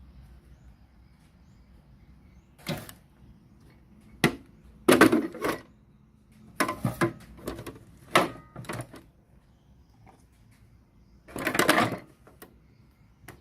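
Handling noises from work on a radio cassette player: a series of clicks, knocks and short clattering scrapes, with the longest burst near the end.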